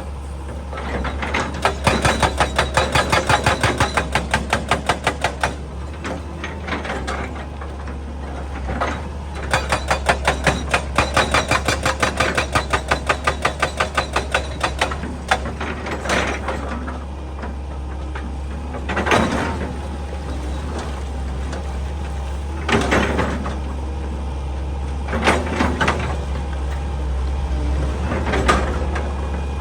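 Excavator-mounted hydraulic breaker hammering rock in two long runs of rapid, evenly spaced blows over the steady drone of the diesel engine. Later come single heavy knocks of steel against rock every few seconds.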